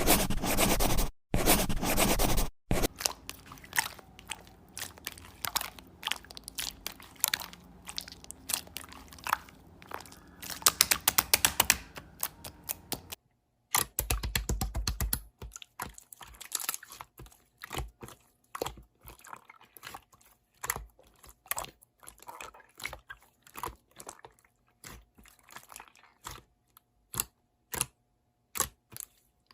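Slime being squeezed and pressed by hand, making dense sharp clicks and pops. Brief gaps about a second in, near three seconds and near the middle mark changes from one slime to another.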